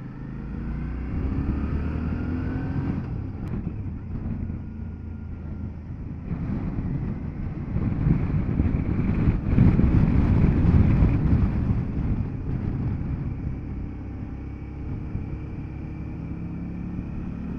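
Motorcycle engine running on the move, with wind rushing over the microphone. The engine note rises and falls with the throttle, and the wind grows loudest about halfway through.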